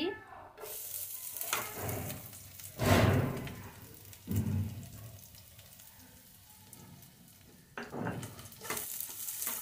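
Lightly crushed garlic sizzling as it hits hot mustard oil in a frying pan, with a wooden spatula stirring and scraping. The sizzle starts just under a second in, with louder flare-ups about three seconds in, again at four and a half seconds and near eight seconds.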